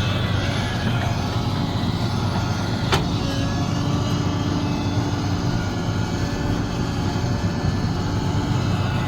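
Sumitomo SH370LHD-6 excavator's diesel engine running steadily, with a faint steady whine above it and one short sharp click about three seconds in.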